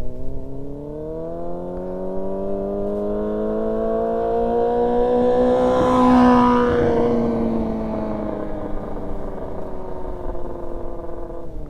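Yamaha R6's inline-four engine as the sport bike rides past under steady throttle. The engine note climbs in pitch and loudness to a peak about six seconds in, then drops in pitch and fades as the bike moves away.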